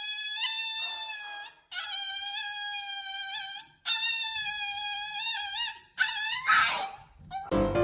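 Dog howling in four long, high, held notes with short breaks between them, and a brief rough yelp about six and a half seconds in. Piano music starts near the end.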